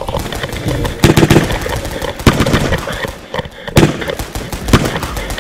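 Airsoft guns firing: an irregular string of sharp pops and clicks, with a few louder shots about a second apart.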